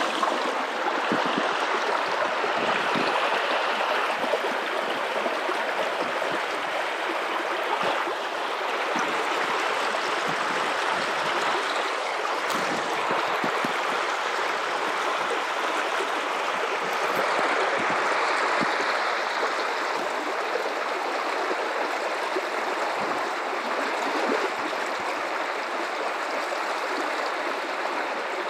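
A river's running water, flowing and splashing over rocks in a steady rush of noise.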